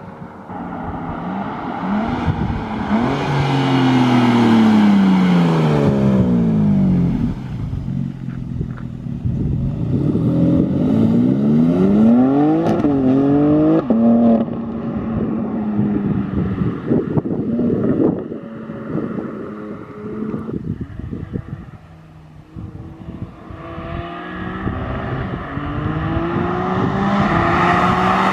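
BMW M4's S58 twin-turbo inline-six with aftermarket SSR downpipes, driven hard: the engine note climbs under full throttle and drops sharply at each quick upshift. The car passes by about four seconds in, where the note is loudest and falls away, and it builds again near the end.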